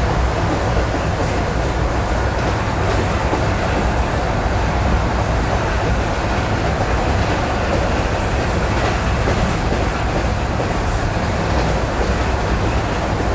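ED9E electric multiple unit running along jointed track, heard from inside the carriage: a steady rumble of wheels and running gear, with a few faint, irregular knocks of the wheels over rail joints.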